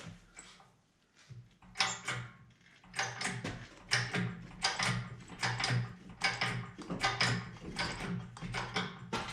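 A jack being worked in repeated, evenly spaced strokes to raise the rear of a transmission, starting about two seconds in, over a steady low hum.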